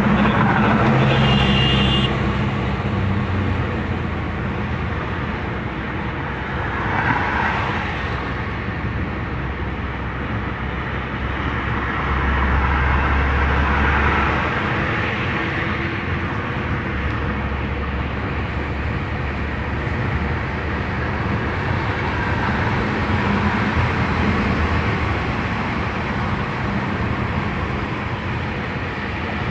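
Car driving along a road: steady engine hum and tyre and road noise, swelling slightly now and then.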